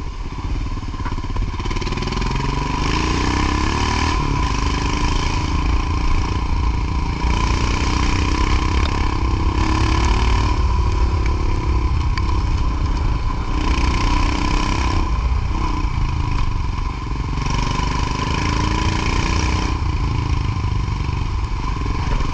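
Motorcycle engine running under way, its pitch rising and falling with the throttle, with a steady whine and stretches of hiss that come and go.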